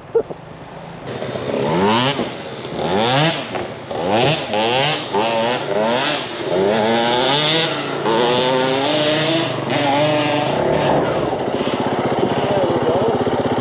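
Four-stroke single-cylinder dirt bike engine revving again and again, its pitch climbing in quick repeated runs and settling into a steadier note near the end.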